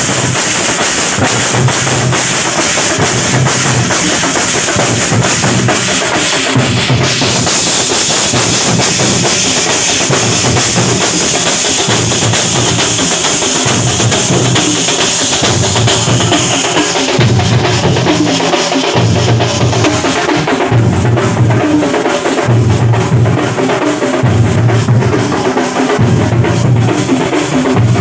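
Loud festival drum ensemble playing, a low drum beat repeating steadily, with a bright metallic shimmer over it that drops away about two-thirds of the way through.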